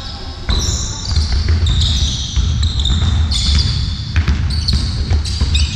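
An indoor court game in a sports hall: a ball bouncing on the hard floor several times, with many short, high-pitched squeaks from shoes on the court over a steady low rumble of the hall.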